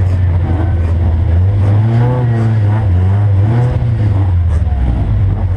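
Race car engine running hard, heard from inside the cockpit, its revs rising and falling through the middle.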